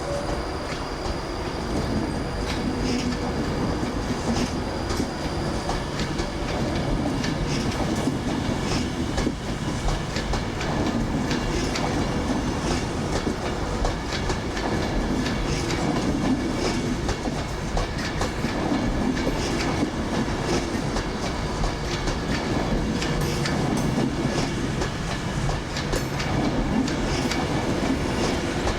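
Passenger train running past, a steady rumble with its wheels clicking over the rail joints.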